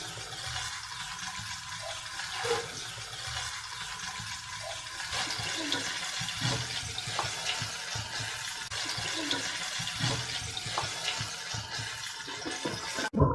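Chicken pieces deep-frying in hot oil: a steady sizzle with scattered small crackles.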